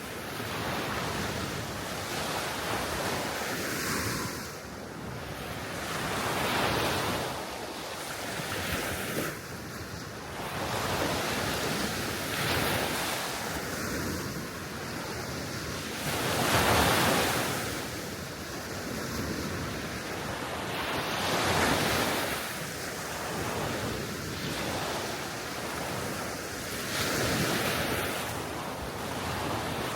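Small Baltic Sea waves washing onto the shore, swelling and falling every few seconds, with wind on the microphone. The loudest wave comes a little past halfway.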